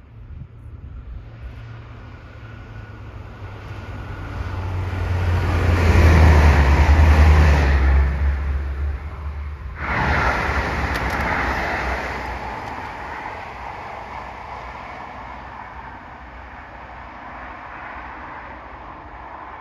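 Bombardier AGC bimode TER multiple unit (B 81500) passing on the line: a low rumble and rail noise build to a peak about six seconds in, then fade away. The sound cuts out abruptly for a moment just before ten seconds in, then comes back loud and slowly dies down.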